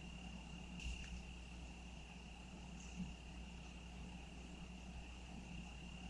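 Crickets trilling in one steady, unbroken high tone, over a faint low rumble. There is a brief soft tick about a second in and a small knock about three seconds in.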